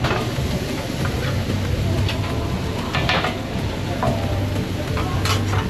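Food frying with a steady sizzle over a low rumble, with a few short clatters of metal kitchenware.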